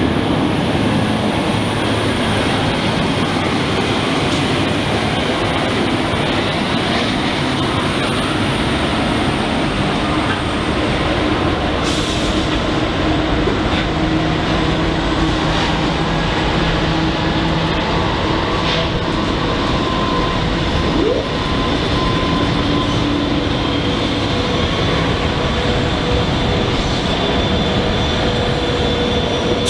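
Diesel freight train passing close by, with Pacific National NR-class and 82-class diesel-electric locomotives leading and then wagons rolling over the rails near the end. The sound is a loud, steady rumble.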